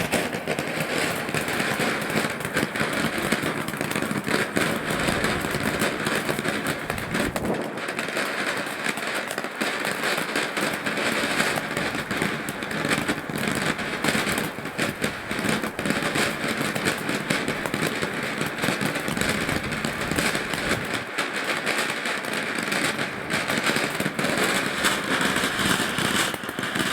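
Small firework fountain tube burning steadily: a continuous hiss of spraying sparks with dense crackling.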